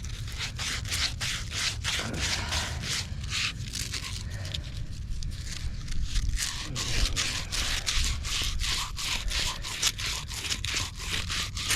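Rapid rhythmic hand scraping on pipe during pipe preparation, about three strokes a second, steadier in the second half.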